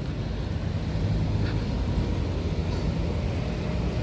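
Steady low rumble of a motor vehicle's engine and road traffic.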